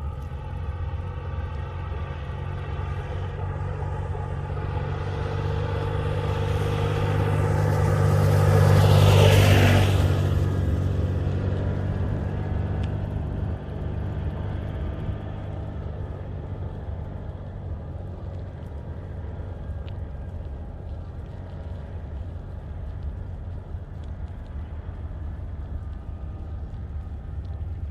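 A motor vehicle passes close by, growing louder over a few seconds, loudest about nine seconds in, then fading away. Under it runs a steady low rumble.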